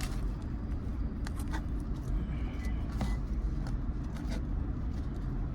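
Steady low rumble with scattered light clicks and rustles as a takeout plate of fried chicken and fries is handled.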